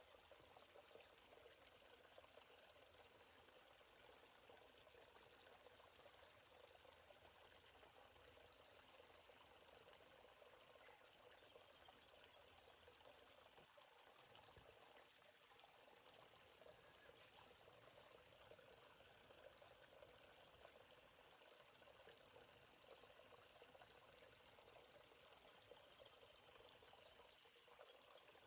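Forest ambience: a steady high-pitched insect chorus, with a faint stream trickling underneath.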